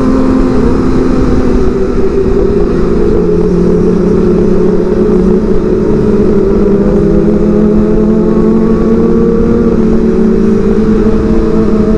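Kawasaki ZX25R's inline-four engine running at steady cruising revs, its pitch drifting only slowly, under rushing wind and road noise while riding.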